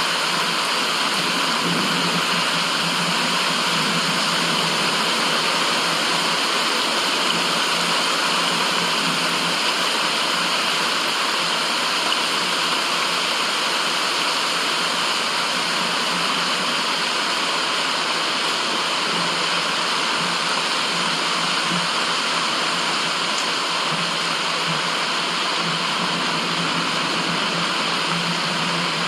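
Steady, unchanging white-noise track: a continuous even hiss with no breaks, strokes or changes.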